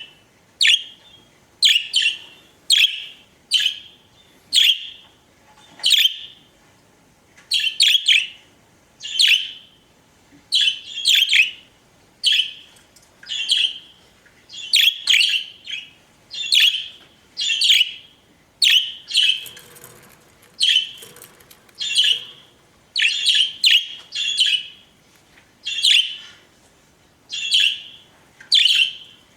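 Pet budgerigars chirping: short, sharp calls repeated roughly once a second, many of them in quick pairs.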